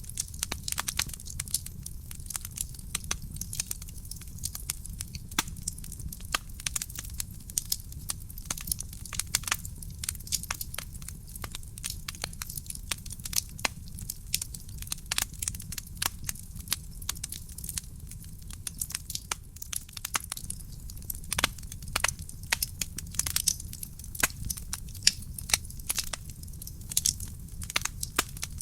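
Wood fire burning in a fireplace: a steady stream of irregular sharp crackles and pops from the burning logs over a low, even rumble of flame.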